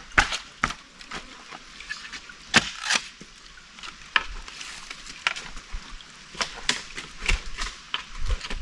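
Wood being chopped: a string of sharp, irregular chopping strokes, bunched close together at first, then about one to two a second.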